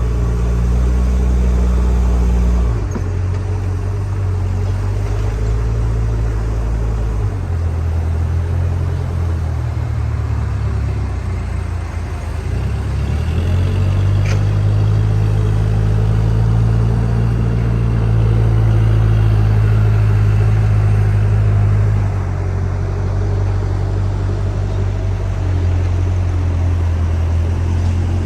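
A heavy machine's engine running, its speed stepping up and down several times; it drops off about twelve seconds in and picks up again just after.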